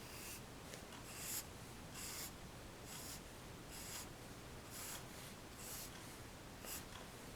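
Graphite pencil sketching on paper: short scratchy strokes, about one a second, some broken into a few quick hatching flicks.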